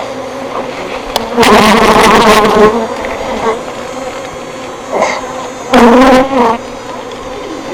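Honey bee swarm buzzing, a dense steady hum. Twice, about a second and a half in and again near six seconds, the buzzing grows much louder and wavers in pitch as bees fly close.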